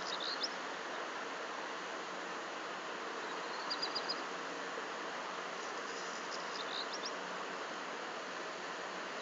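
A small bird repeats a short, high chirping phrase of a few quick notes about every three seconds, over a steady background hiss.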